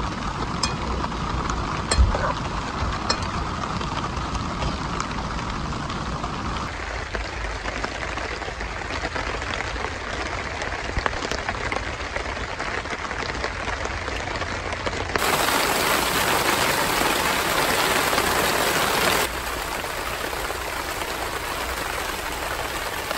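Steady rain falling on a waterproof tarp shelter, an even hiss. It turns abruptly fuller and louder from a little past the middle for about four seconds, with a few light clicks in the first three seconds.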